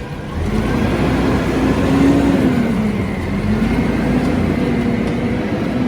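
Peterbilt garbage truck's engine revving up about half a second in, its pitch climbing, easing off and climbing again.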